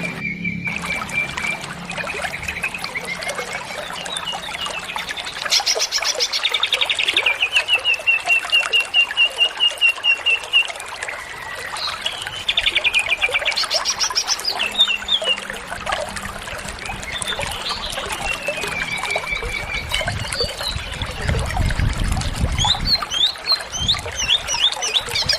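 Green leafbird (cucak ijo) singing a long, varied song of rapid trills, a sustained buzzy run of notes, slurred whistles and short chirps. There is a low rumble about twenty seconds in.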